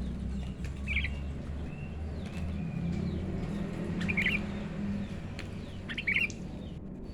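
Sooty-headed bulbul (kutilang) giving three short chirping calls, about a second, four seconds and six seconds in, over a steady low rumble.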